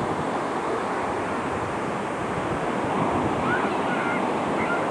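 Ocean surf breaking and washing on the beach, a steady rush, with wind buffeting the microphone.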